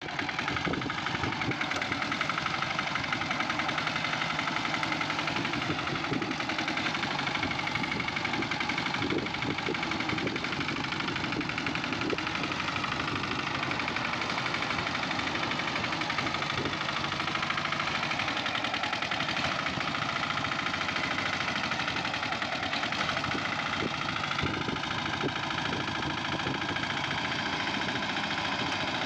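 Tractor engine running steadily, with a rapid even firing beat; its pitch shifts slightly about three quarters of the way through.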